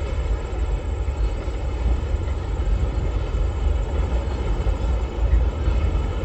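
Long freight train rolling past, a steady rumble of its wagons with no break.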